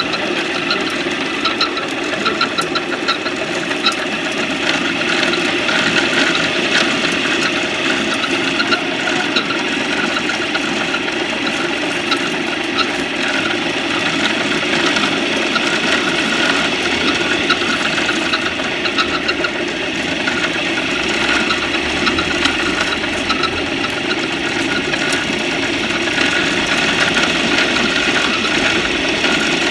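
An engine running steadily at idle, a continuous even mechanical drone with no pauses.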